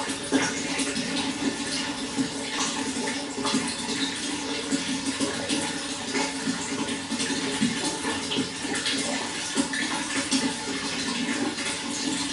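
Running water flowing steadily, with many small irregular splashes and gurgles over a continuous rush.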